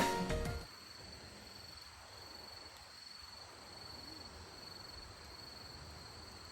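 Background music fades out in the first moment, then faint insects keep up a steady high-pitched trill over a low, even outdoor hush.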